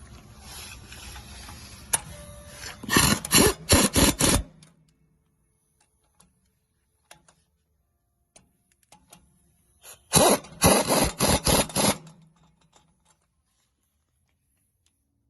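Impact wrench run in two short bursts of quick rattling blips, about three seconds in and again about ten seconds in, tightening the brake caliper bracket bolts.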